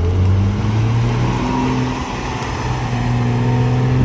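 A car engine running steadily at low revs, dipping briefly in level about two seconds in.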